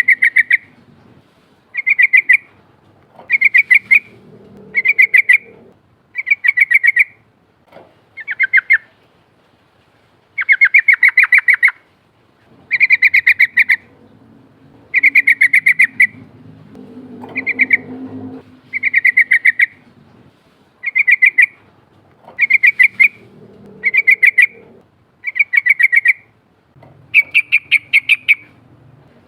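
Yellow-vented bulbul (trucukan) singing its rolling song: loud, bubbly phrases of rapid notes, each about half a second to a second and a half long, repeated every one to two seconds.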